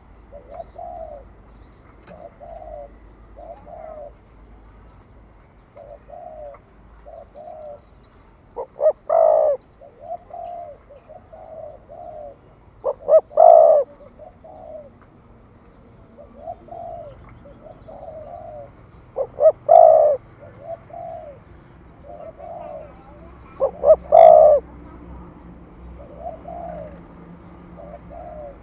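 Spotted dove cooing: a run of soft coos about a second apart, broken by a much louder coo about every five seconds, four times in all.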